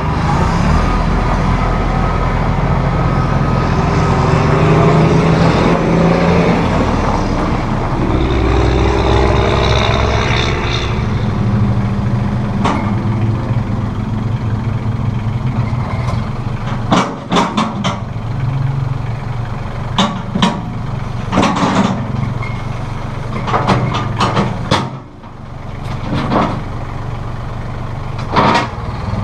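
2011 Massey Ferguson 1635 compact tractor's diesel engine running and working, its pitch rising and falling as it revs in the first ten seconds or so. In the second half, a series of sharp knocks and clanks sound over the engine.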